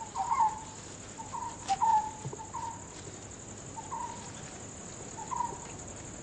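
Birds giving short chirps every second or so, over a steady high-pitched chirring of crickets.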